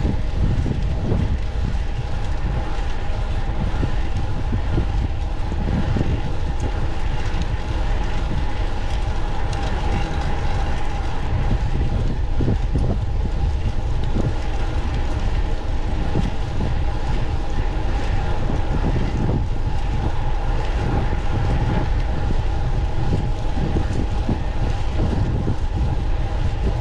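Steady wind rush and road rumble from riding a fixed-gear bicycle, with a faint steady drivetrain hum.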